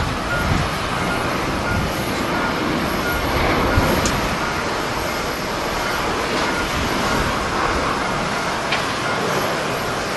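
Steady, loud roar of jet airliner engines at an airport, with a gust of wind buffeting the microphone about half a second in.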